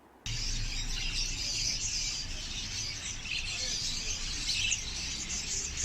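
Many small caged pet birds chirping together in a dense, continuous high chatter, starting abruptly a moment in.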